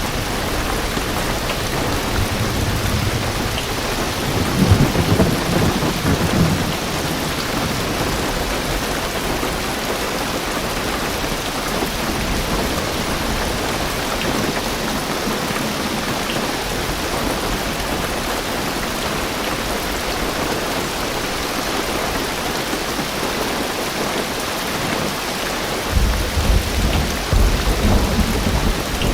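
Heavy rain drumming steadily on a car's roof and windows, heard from inside the car. A low rumble of thunder swells in the first few seconds, and another begins near the end.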